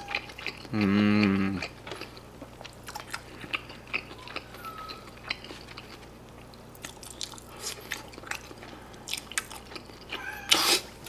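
Close-miked chewing of a mouthful of fusilli pasta: soft wet mouth clicks and smacks, with a short hummed 'mmm' about a second in.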